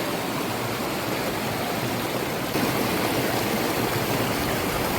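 Flowing water, like a stream or waterfall, making a steady rushing noise that changes slightly in tone about halfway through.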